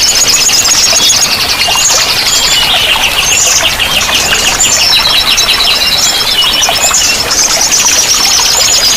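Several small songbirds singing at once, with fast high trills and chirps overlapping, over a steady rush of flowing water.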